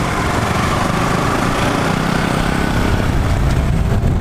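Motorcycle engine running steadily under way, with road and wind noise on the rider's microphone.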